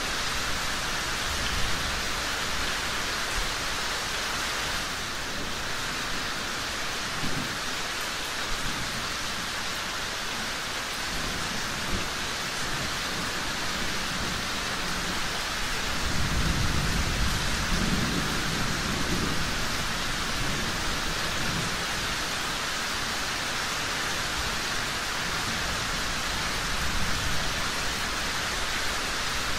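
Steady rain falling. A low rumble of thunder swells and fades about halfway through.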